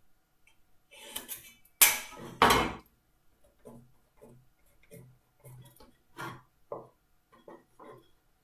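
Marking-out tools handled on a wooden workpiece: two loud knocks of metal and wood being set down about two seconds in, then a run of light taps and scratches as the marking continues.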